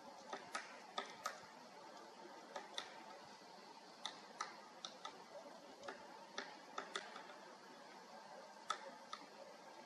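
Great spotted woodpecker making short, sharp clicks at irregular intervals, some in quick pairs, about twenty in all over a faint background hiss.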